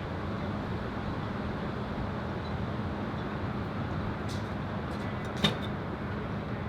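Strong wind buffeting the microphone as a steady low rumble, with a single sharp click about five and a half seconds in and a few fainter ticks around it.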